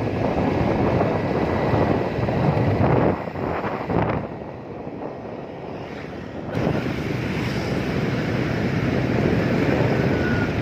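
Wind blowing hard over the microphone, a dense rushing noise with no pitched sound in it; it eases for about three seconds midway, then comes back at full strength.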